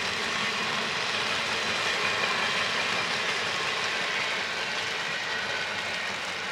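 A train rolling past with a steady, continuous rumble and wheel-on-rail noise.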